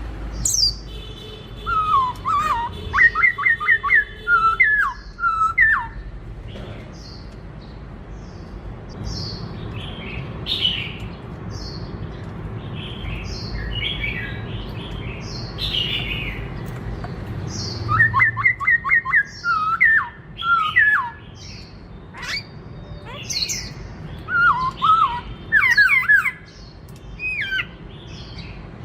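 Black-throated laughingthrush singing: three loud bouts of fast, repeated whistled notes, with softer chirps between them. A low steady hum runs underneath.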